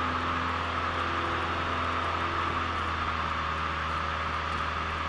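Cessna 172L's four-cylinder Lycoming engine and propeller at climb power after takeoff, heard inside the cockpit as a steady drone with rushing airflow noise.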